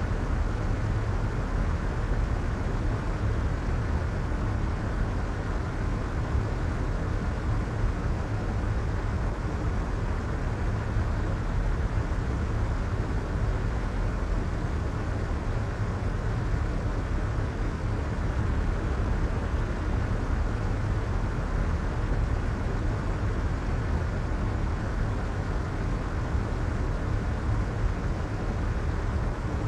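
Soft white noise: a steady, unchanging hiss, heavier in the low end and dulled in the highs.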